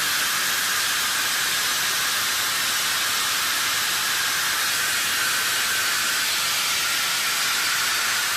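Steady, even hiss that does not change in level or pitch.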